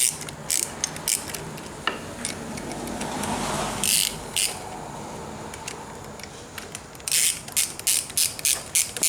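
Hand ratchet with a Torx bit clicking in short runs as screws on a motorcycle's clutch-side handlebar control are loosened. A brief rustle sits in the middle, and a quick run of clicks comes near the end.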